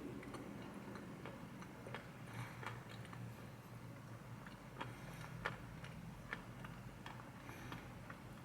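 Faint, slow chewing of an ice cream chocolate chip cookie sandwich: soft, irregular mouth clicks and smacks roughly once a second, over a low steady hum.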